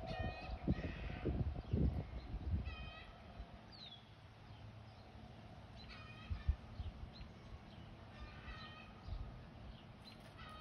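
Birds calling in short repeated calls, a group every couple of seconds, with one short falling whistle about four seconds in. Wind rumbles on the microphone in the first two seconds.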